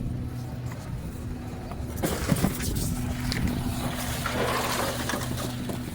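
Garbage truck engine running with a steady hum. About two seconds in, a louder rushing, clattering noise with a few knocks joins it.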